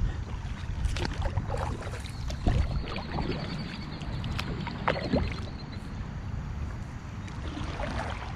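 Kayak being paddled through creek water: paddle strokes splashing, with scattered knocks of the paddle against the hull over a low steady rumble.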